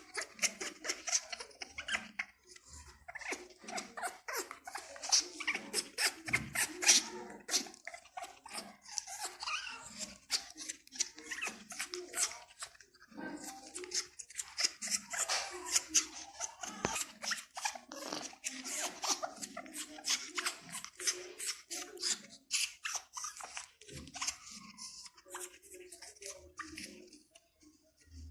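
Pet parrot chattering: a busy run of sharp clicks mixed with short calls, with brief pauses.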